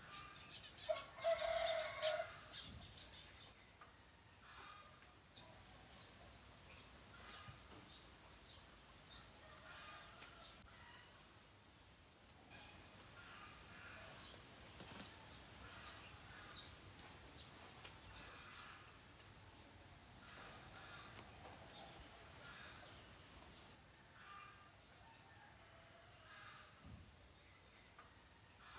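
Insects chirring steadily in a fast, even pulse, with a rooster crowing once about a second in. Fainter calls repeat every second or two.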